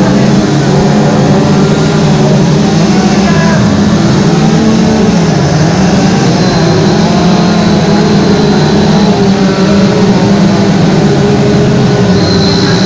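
Two-stroke chainsaw running at high revs while carving wood; its pitch sags briefly about five seconds in as the chain bites under load, then climbs back.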